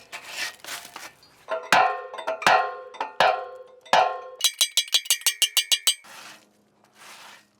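Rusted steel cart wheel struck with a metal tool: four ringing metallic clangs a little under a second apart, followed by a quick rattling run of about ten clicks a second, then a softer scraping noise.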